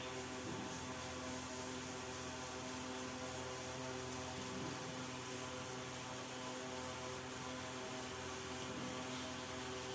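A steady hum made of several constant tones over a faint hiss, unchanging throughout.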